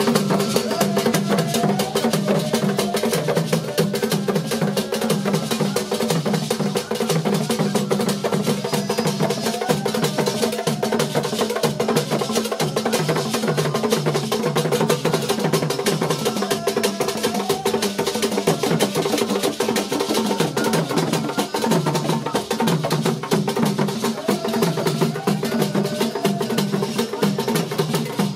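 Drum and percussion music with a dense, steady beat, with a wavering pitched line running over it.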